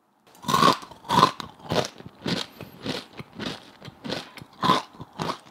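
Crunchy chewing of deep-fried glutinous rice crisps (guoba) dipped in sugar, a crunch about twice a second, starting about half a second in.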